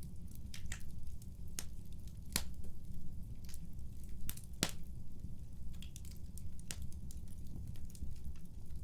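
Wood fire in a fireplace burning with a steady low rumble and irregular sharp crackles and pops, the loudest about two and a half and four and a half seconds in.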